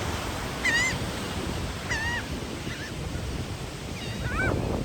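Several short calls from seagulls, scattered across the few seconds, over a steady wash of surf and wind.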